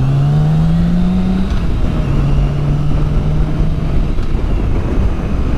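Motorcycle engine pulling away, its pitch rising until a gear change about a second and a half in, then running steadily in the next gear under a constant rush of wind noise.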